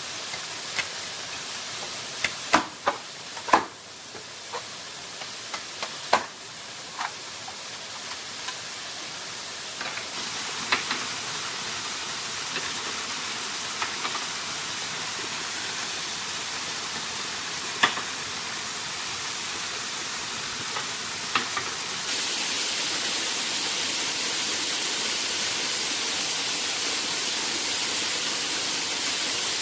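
Steady rush of waterfall water, with scattered sharp knocks and taps, several close together in the first few seconds and a few more spread out after. The water gets louder and brighter about 22 seconds in.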